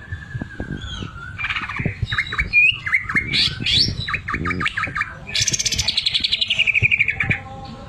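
Cucak ijo (greater green leafbird) singing a varied, loud song: a falling whistle, then quick chattering and squeaky notes. Past halfway comes a fast rattling trill of about ten notes a second that slides down in pitch for some two seconds, the sewing-machine-like phrase in its repertoire. Soft knocks sound underneath.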